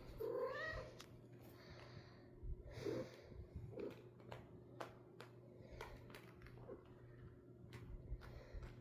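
Domestic cat meowing: a short rising meow about half a second in, a softer call near three seconds, with scattered light clicks in between.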